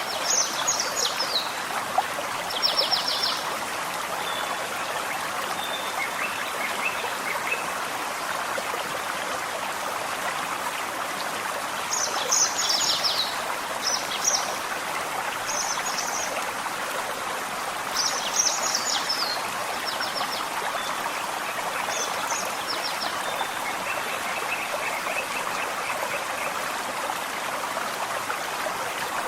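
Gentle forest stream running with a steady rush of water. A songbird sings short, high, quickly repeated chirping phrases several times over it, and a fainter, lower thin trill comes twice.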